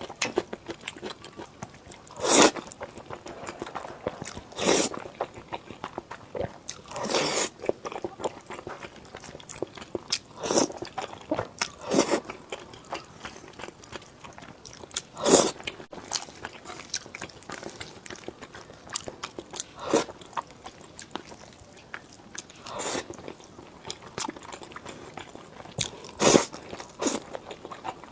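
Close-miked eating sounds: steady chewing broken by louder crunchy bites every few seconds.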